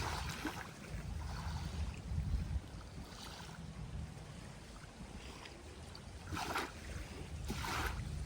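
Small ocean waves washing onto a beach, with wind rumbling on the microphone; two stronger washes come about a second apart near the end.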